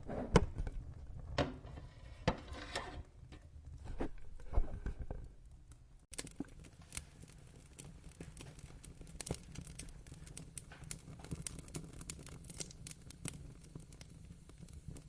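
Wood fire crackling and popping over a low rumble, with louder, irregular pops in the first few seconds. About six seconds in it changes abruptly to a steadier, lighter crackle of quick ticks.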